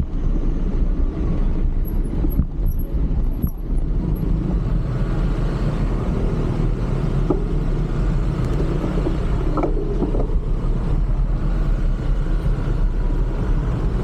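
City road traffic heard from a moving bicycle: a steady low rumble of wind and passing vehicles, with a short pitched squeal about ten seconds in.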